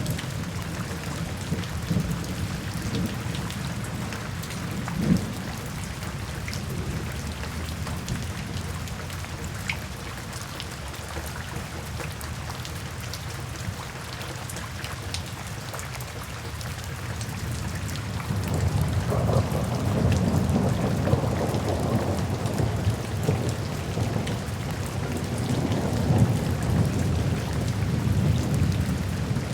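Steady rain falling with rolling thunder: a low rumble under the rain swells about two-thirds of the way through and again near the end.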